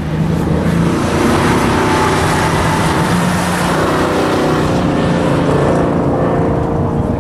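Cars lapping a race track: a ute's engine runs loud and steady as it drives past at speed. A second car's engine rises in pitch near the end as it accelerates.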